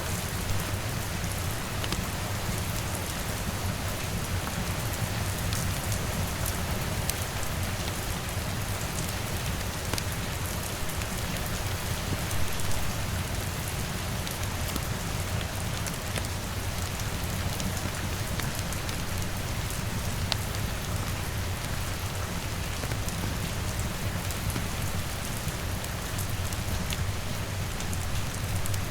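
Steady heavy rain, a constant hiss over a low steady rumble, with many small sharp clicks scattered through it.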